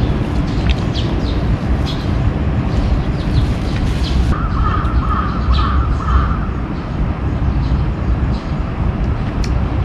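Steady low outdoor rumble, with a bird calling for about a second and a half midway.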